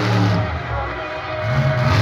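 Monster truck engine revving, easing off about half a second in and coming back up near the end, with music playing in the background.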